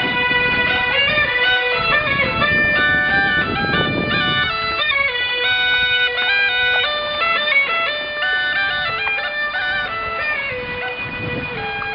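Bagpipe playing a fast, ornamented melody over a steady drone, with a low rushing noise underneath during the first few seconds.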